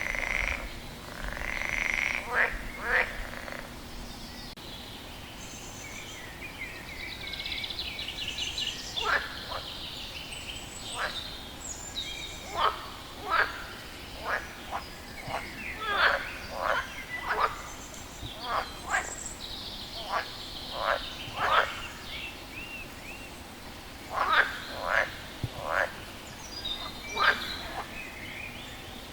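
A frog calling over and over: short, sharp croaks, often in quick pairs or clusters, with irregular gaps between them. Higher, fainter chirping calls run in between.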